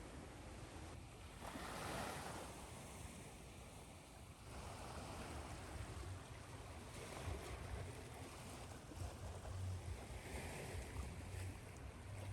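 Ocean waves washing in and drawing back: soft swells of noise, one about two seconds in and several more later, over a low steady rumble, mixed with steady white noise.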